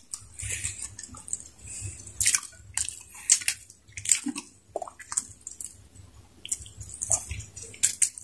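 Close-miked wet chewing and lip-smacking from people eating saucy chicken stew and rice with their hands: irregular sharp, squishy smacks, one or two a second.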